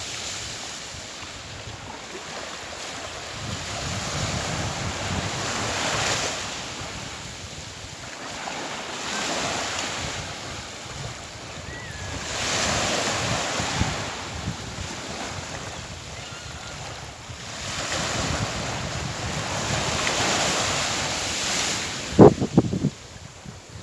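Sea waves washing onto the shore, swelling and ebbing about every six seconds, with wind buffeting the microphone. A brief loud bump comes near the end.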